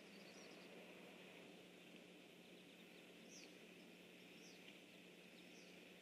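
Faint, high, thin bird calls: three short chirps that slide down in pitch, about a second apart, over a steady hiss and a low hum.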